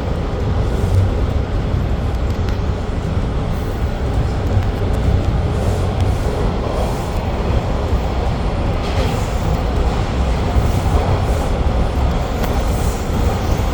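TTC Line 2 subway train running at speed, heard from inside the car: a steady, loud rumble of wheels and motors.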